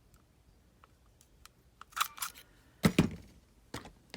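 Hand-held 1/8-inch hole punch clicking and snapping through envelope paper: a few light clicks about two seconds in, a loud double snap about a second later, and one more click near the end.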